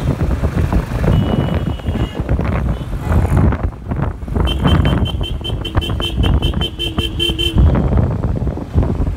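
Road traffic noise with a vehicle horn beeping rapidly, about five short beeps a second for roughly three seconds in the middle, after a short horn note near the start.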